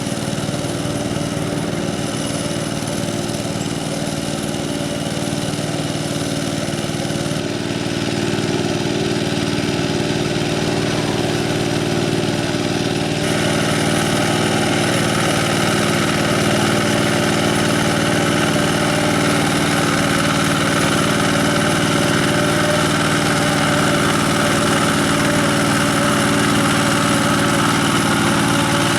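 Single-cylinder diesel engine of a two-wheel hand tractor running steadily. It gets a little louder about seven seconds in and again about thirteen seconds in.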